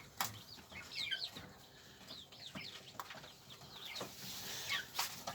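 Kept birds calling: many short, high chirps that drop in pitch, with a few sharp knocks in between.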